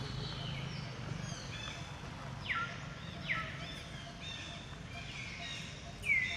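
Birds calling: repeated short whistled calls that drop sharply in pitch, the loudest about two and a half, three and a half and six seconds in, over a steady low background hum.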